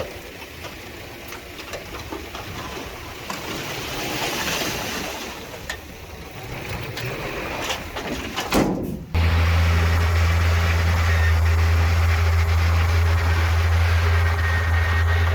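Heavy diesel construction machinery working, with scattered clanks over engine noise. About nine seconds in, the sound switches abruptly to a much louder, steady, low engine drone.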